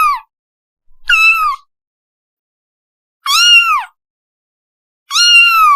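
Kitten meowing: three short, high-pitched meows about two seconds apart, each dropping in pitch at the end, with the tail of another meow at the very start.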